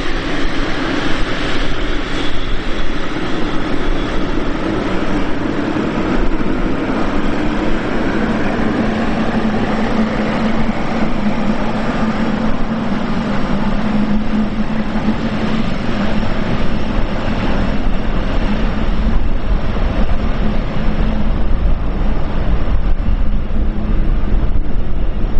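Jet engines of a Boeing 777 freighter running, a steady jet noise with a low hum that sinks slightly in pitch. Wind rumbles on the microphone, growing heavier in the second half.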